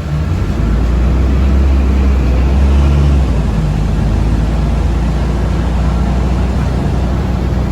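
Cabin noise of a moving city passenger vehicle: a loud low rumble and hum that swells about half a second in, then runs on steadily.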